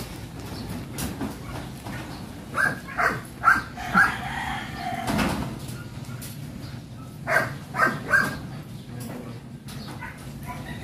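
A bird calling: two runs of three or four short pitched calls, with a longer call between them, over scattered light knocks and outdoor background noise.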